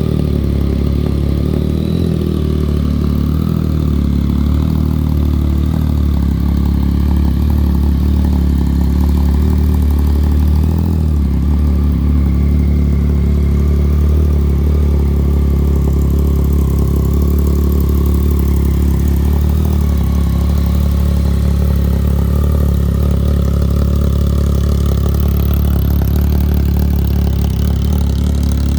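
Yamaha XSR900's 847 cc inline-three engine idling steadily through a Black Widow aftermarket exhaust.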